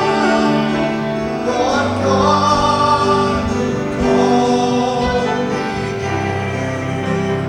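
Congregational worship song: voices singing held notes over instrumental accompaniment.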